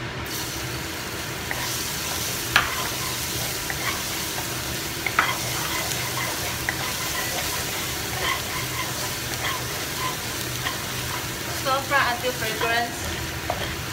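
Minced garlic sizzling in hot oil in a wok, starting just as it is tipped in. A wooden spatula knocks and scrapes against the pan now and then as it is stirred. A short run of squeaky sounds comes near the end.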